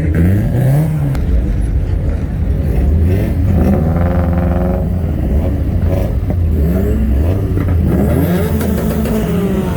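Car engine revved several times, its pitch climbing and dropping again, with the low rumble of idling engines underneath.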